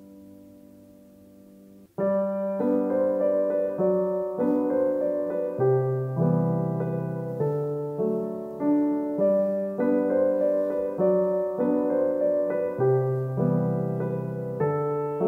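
Background piano music: a held chord fading out, then about two seconds in a new gentle piece of repeated, evenly paced piano notes begins.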